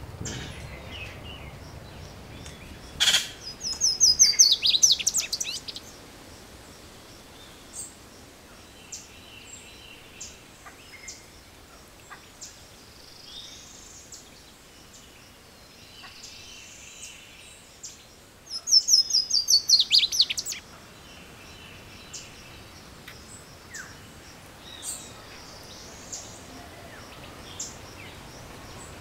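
Wild birds calling in woodland: twice, about fifteen seconds apart, a loud rapid run of high falling notes lasting about two seconds, with faint scattered chirps in between. A single sharp click comes just before the first run.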